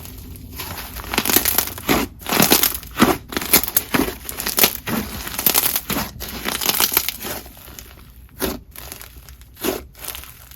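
Hands pressing, squishing and stretching slime, giving irregular crunchy crackling and crinkling sounds, a few strokes a second, thinning to a few separate pops near the end.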